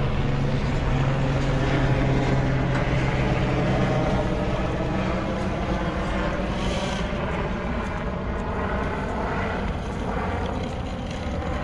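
Aircraft engine droning steadily overhead, its hum easing off slightly over the seconds.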